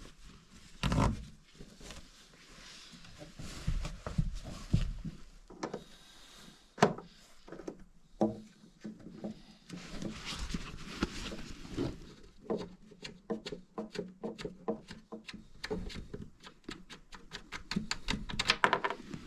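Irregular knocks and scraping from hand work in a small room, with a quick run of light taps, several a second, in the second half.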